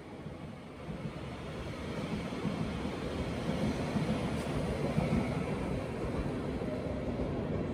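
Northern multiple-unit passenger train running along the platform road, a steady rumble of wheels on rails and running gear that grows louder about two seconds in as the train passes close by.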